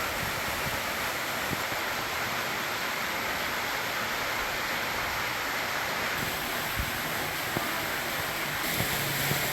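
Waterfall of a creek pouring down through a hole in a rock overhang: a steady rush of falling water.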